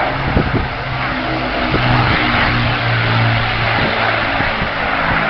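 Avro Lancaster bomber's four Rolls-Royce Merlin V12 piston engines running in flight: a steady low engine note with a loud rushing noise over it.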